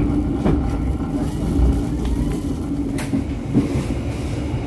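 Passenger train running along the track, heard from inside the carriage: a steady low rumble with a constant hum, and a couple of sharp clicks.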